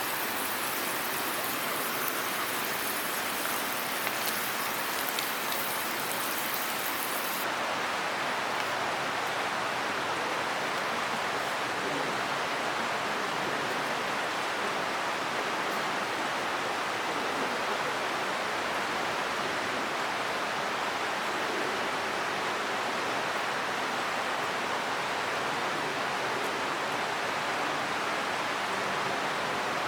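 Steady rushing of water. A brighter hiss with fine pattering over it cuts off suddenly about seven seconds in, leaving an even rush.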